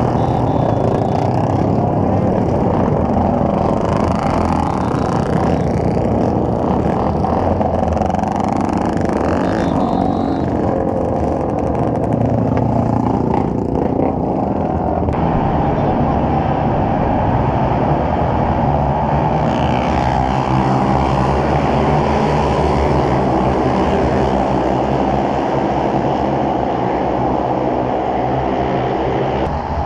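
Motorcycle engine running steadily under way, loud and continuous, with its pitch rising and falling in the second half.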